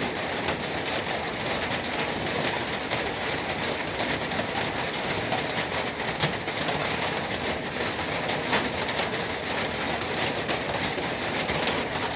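60-grit sandpaper scraping steadily over a diamond-plate truck toolbox, a continuous gritty sanding noise.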